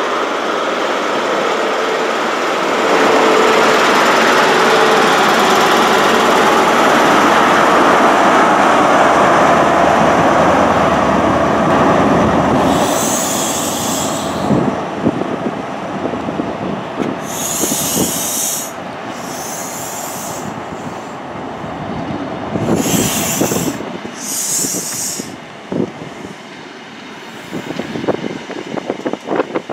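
Class 43 HST power car 43239's MTU diesel engine running loud as it passes close by for the first twelve seconds or so. Then the coaches roll slowly past, with wheels knocking over rail joints and several bursts of high hissing, as the train draws in to stop.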